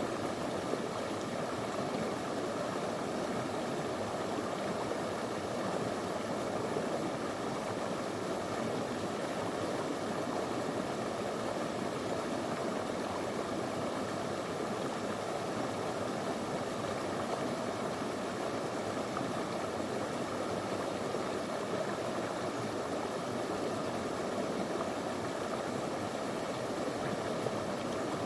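Small shallow river flowing over stones: a steady, even rush of running water.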